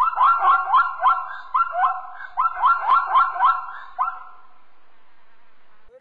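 Zebra barking call: a quick run of high, yelping barks, several a second in short bursts, that stops about four seconds in.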